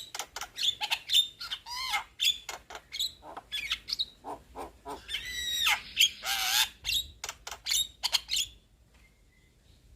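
Young Javan myna (jalak kebo) chattering in a rapid run of short, sharp squawks, clicks and whistled notes, stopping about a second and a half before the end.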